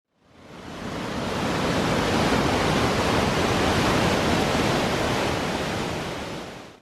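Steady rush of fast-falling water, like a waterfall or torrent in a gorge, fading in at the start and fading out at the end.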